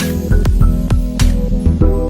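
Background music: an electronic track with synthesizer notes over a steady drum beat.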